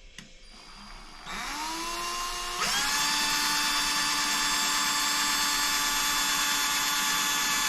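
Electric drill starting about a second in, its motor whine rising in pitch, then stepping up to full speed and running steadily at a high pitch, as it drills holes through the RC boat's plastic canopy for a camera mount.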